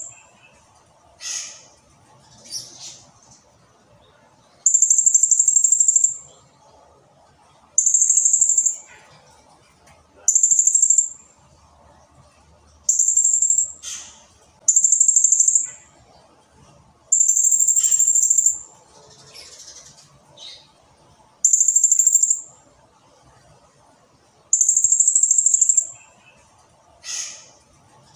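Blue-crowned hanging parrot (serindit) singing: eight high-pitched, rapid trills, each lasting about a second, repeated every two to three seconds, with short sharp downward-sweeping calls between them.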